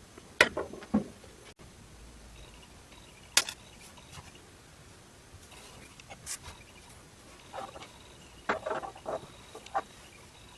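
Irregular clicks and light knocks of small metal parts and tools being handled, in scattered ones and twos with a cluster of taps near the end.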